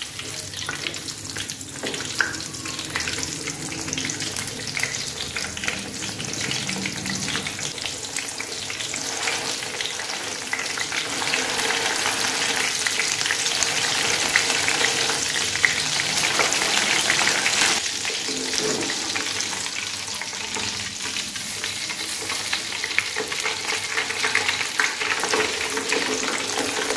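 Frozen chicken chapli kabab patty shallow-frying in hot oil in a steel frying pan: steady sizzling and crackling that grows louder in the middle, with occasional scrapes and clinks of a metal spatula against the pan as the patty is turned.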